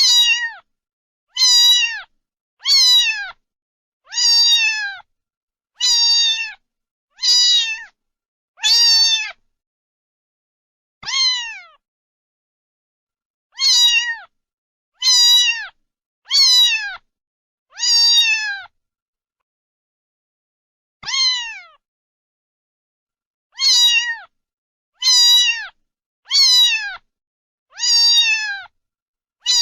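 Domestic cat meowing over and over: about seventeen short meows, each sliding down in pitch, coming roughly every second and a half, with a couple of longer pauses in the middle.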